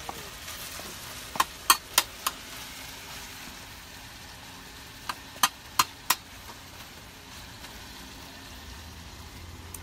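Chopped thick-cut bacon frying over medium-high heat, with a steady sizzle. Two runs of four sharp clacks, about three a second, come about a second and a half in and again about five seconds in.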